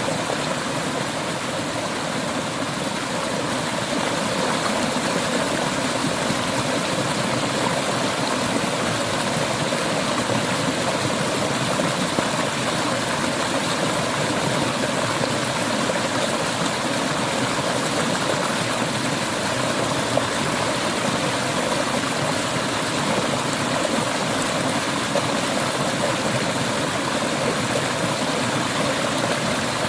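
Clear river water flowing over rocks: a steady rushing stream.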